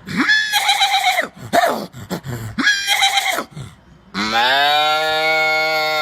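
A person imitating a cow's moo with the voice. There are a few short calls, then one long drawn-out moo starting about four seconds in.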